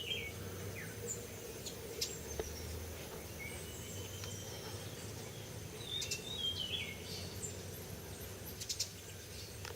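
A wild bird calling with short falling whistled notes and sharp clicking notes, several times over, against a steady low background hum.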